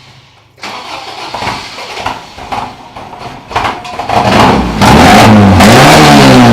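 Toyota pickup truck engine with a freshly fitted carburetor and throttle cable, running unevenly and then revved hard from about four seconds in: the pitch rises and falls twice, then drops back near the end. Very loud close to the microphone.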